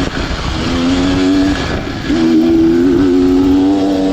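Beta Xtrainer 300 two-stroke dirt bike engine running under throttle, its pitch held fairly steady, with brief drops in revs near the start and about two seconds in.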